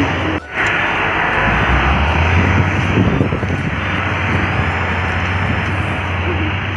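Railway track machine working on the line, its engine running with a loud steady drone and a deep hum; the sound dips briefly about half a second in.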